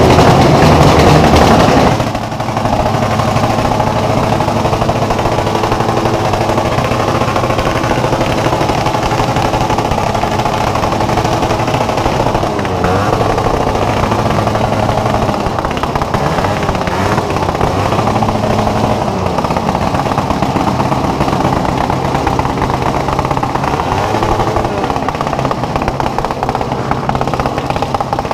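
Motorcycle engine revved hard for about two seconds, then cut back suddenly to a steady fast idle with a few brief blips of the throttle.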